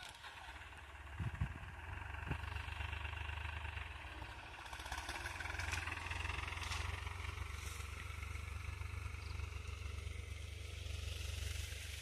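New Holland 3600-2 tractor's three-cylinder diesel engine running steadily, working a field with a reversible plough; the pitch rises a little about five seconds in.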